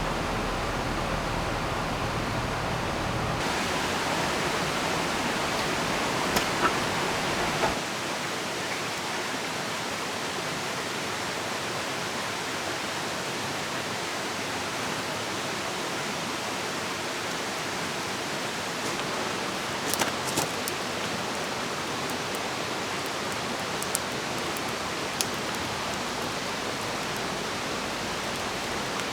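Steady rushing of a river mixed with falling rain, with a few short sharp ticks scattered through. A low hum underneath stops about three seconds in.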